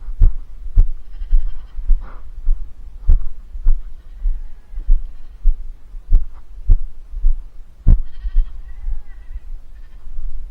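Repeated dull low thumps, uneven and about one or two a second, with two bleat-like farm animal calls, one about a second in and one near eight seconds.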